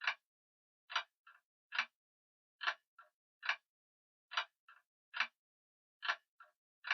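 Grandfather clock ticking: sharp, even ticks a little more often than once a second, several of them followed by a fainter second click.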